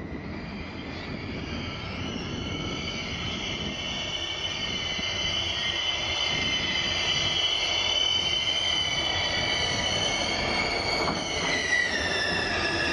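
DF200 diesel-electric locomotive hauling a train of oil tank wagons as it approaches, its running noise growing steadily louder. Over it sounds a high whine of several tones, which drops in pitch about two thirds of the way in.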